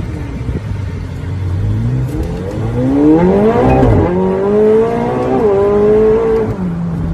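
A performance car's engine and exhaust accelerating hard: after a low rumble the revs climb steeply, drop sharply twice as it shifts up, climb again, then fall away near the end as the throttle is lifted.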